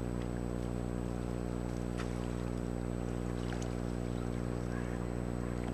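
Boat motor running steadily at a low, even idle, a constant hum with no change in speed.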